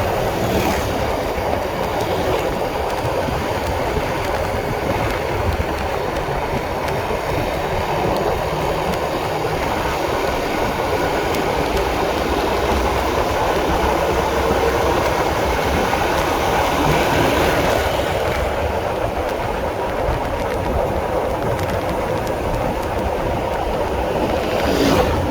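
Honda CB150R motorcycle under way: a steady rumble of engine and road noise mixed with wind on the microphone.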